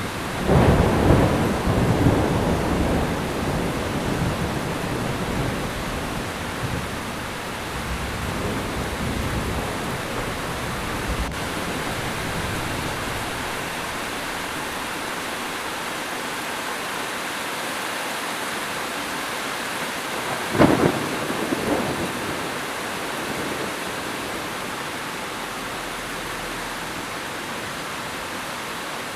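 Heavy rain falling steadily, with a thunderclap about half a second in that rolls and rumbles away over several seconds, and a second, shorter thunder crack about two-thirds of the way through.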